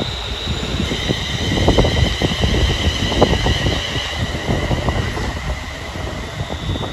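A train running on the line, a low rumble overlaid with steady high-pitched whining tones, and wind buffeting the microphone.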